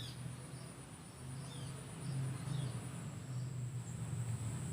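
Insects trilling steadily at a high pitch, with a few short, quick bird chirps through it and a low rumble underneath.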